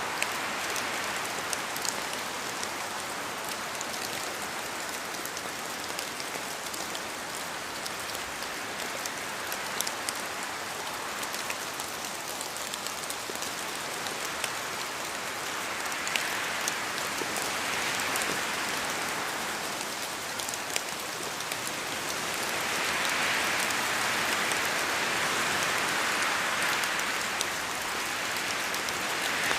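Steady rain falling in a forest, with sharp drops landing from the trees. The rain swells louder twice in the second half, with wind in the trees.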